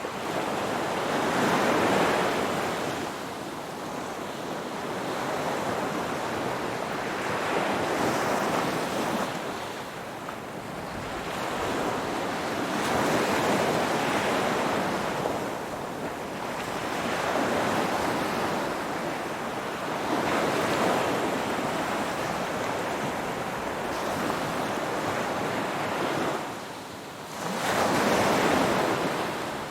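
Ocean waves surging and breaking, each wave swelling and fading every several seconds. A brief lull near the end is followed by a louder wave.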